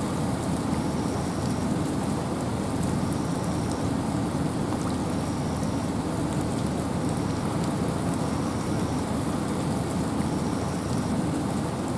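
Steady rain and wind in a forest: an even rushing noise, heaviest in the low range, with no let-up.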